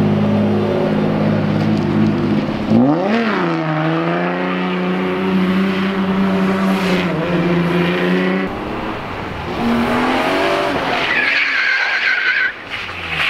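Drift car's engine held at high revs, with a quick rise and fall in revs about three seconds in and again around ten seconds. Tires squeal as the car slides, near the end.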